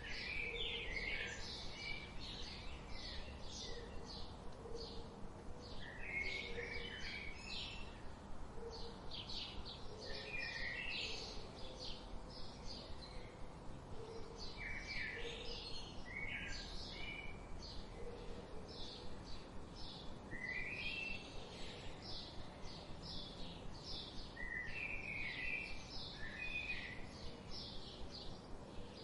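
Several small birds chirping without pause: rapid high chirps throughout, with a lower, falling twittering phrase every few seconds and faint low notes underneath.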